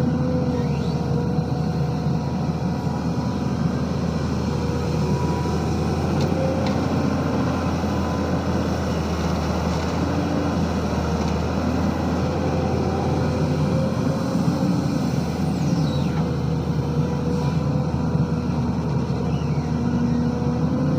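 SANY SY215C crawler excavator's diesel engine working under load, a steady drone whose pitch and strength shift slightly as the machine digs and swings.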